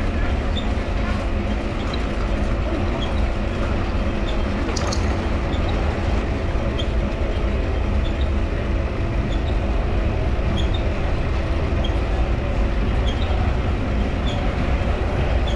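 Mifa folding bicycle being ridden: a steady low rumble of rolling, a steady hum from its dynamo, and a short high squeak from the pedal crank about once a second.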